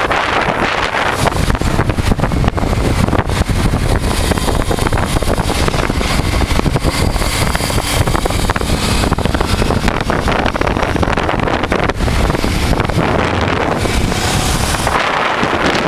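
A 1988 Honda Transalp's V-twin engine running at speed, with wind buffeting the microphone. The noise is loud and steady throughout.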